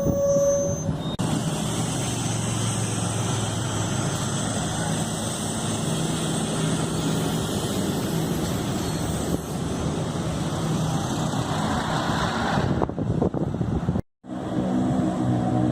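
Street traffic noise of a city bus moving by, a steady rushing of tyres and running gear with a low hum. It breaks off abruptly near the end, goes silent for a moment, and another stretch of traffic noise follows.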